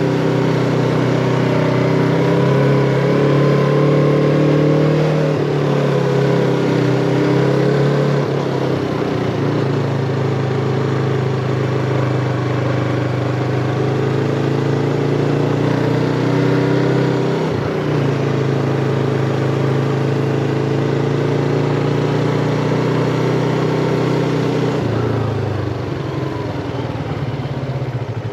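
Yamaha MT-25 parallel-twin motorcycle engine running under way, its pitch stepping down briefly a couple of times, as at gear changes. Near the end the engine note drops and gets quieter as the throttle eases off.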